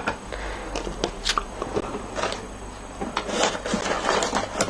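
Light clicks, taps and rustles of card stock and small craft tools being handled on a work surface, growing busier in the second half.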